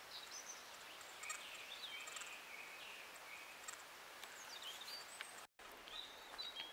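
Faint birdsong, short chirps and whistles from small birds, over a steady outdoor hiss. The sound cuts out completely for a moment about five and a half seconds in.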